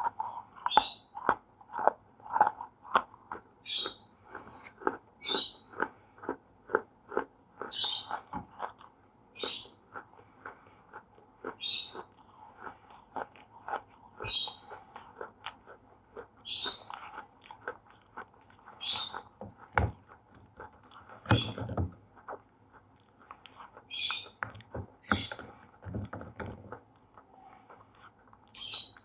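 Slate pencil being bitten and chewed, a steady run of crisp crunching cracks several times a second. A short high-pitched sound recurs every second or two.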